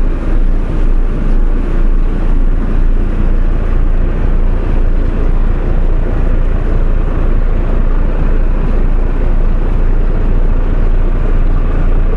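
Boat's engine running steadily under way, a loud, even low rumble with a broad hiss above it.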